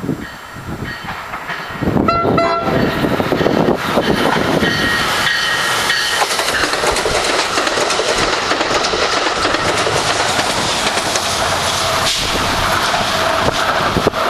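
A diesel-hauled passenger train, an ex-Amtrak P40DC locomotive pulling multilevel coaches, sounds its horn about two seconds in as it approaches. It then passes close by at speed, with a steady rush of wheel and rail clatter.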